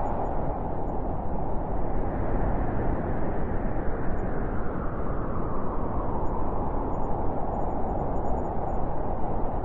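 Wind blowing steadily, a rushing noise that eases off in the middle and strengthens again near the end.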